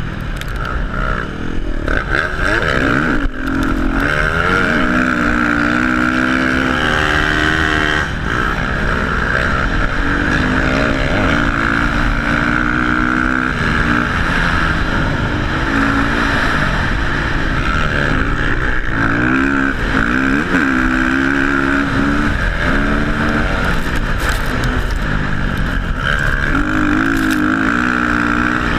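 Dirt bike engine being ridden, its pitch rising and falling again and again with the throttle.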